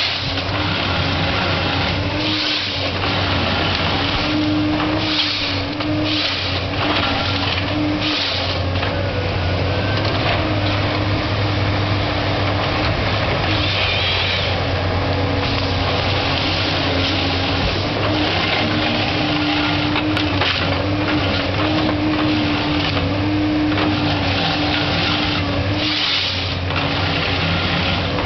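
Komatsu PC228 forestry harvester running steadily: its diesel engine drones, with a hydraulic whine that rises and drops out every few seconds as the machine works.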